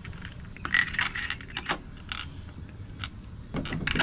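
Wrench and screwdriver clinking and scraping against a metal trolling-motor mount while its bolts are tightened: a scattered run of short metallic taps and clicks, bunched about a second in and again near the end.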